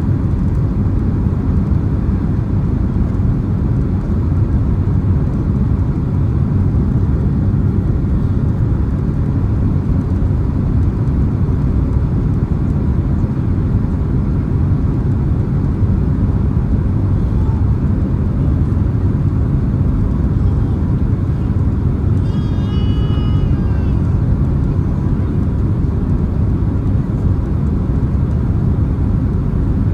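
Steady low rumble of a Boeing 767-300ER's cabin in flight or on the ground: engine and airflow noise heard from a rear window seat. A faint voice comes through briefly about three quarters of the way in.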